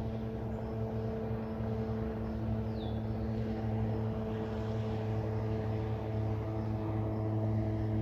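A distant engine drone, a steady hum slowly growing louder as it approaches, with a single short bird chirp about three seconds in.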